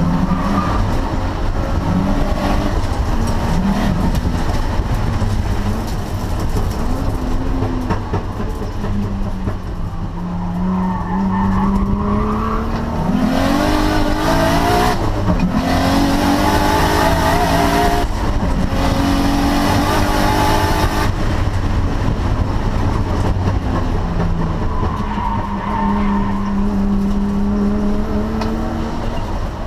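Nissan Cefiro A31's custom 2.4-litre RB24 straight-six engine driven hard on a race track, its revs climbing repeatedly through the gears and dropping between pulls, with tyres squealing at times.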